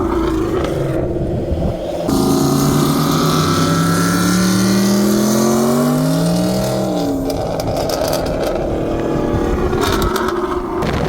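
Supercharged or turbocharged Mustang V8 under hard acceleration. The engine note climbs steadily in pitch for about five seconds, then drops sharply, as on an upshift or lifting off, and rougher engine noise follows. The sound changes abruptly about two seconds in.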